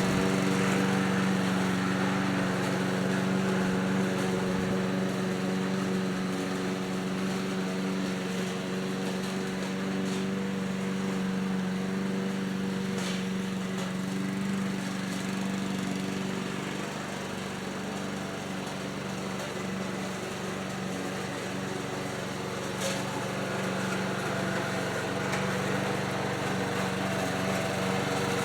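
1979 Ace Hardware push mower's small gasoline engine running steadily, after repairs that included its recoil starter.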